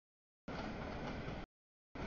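Freight train cars rolling past, a steady noise of wheels on rail, broken by abrupt audio dropouts: silence, about a second of train noise, silence again, and the sound cutting back in at the very end.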